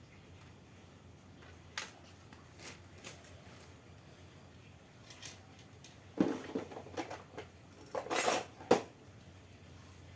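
Hard parts and tools being handled: a single sharp click, then a cluster of knocks and rattling clinks in the second half.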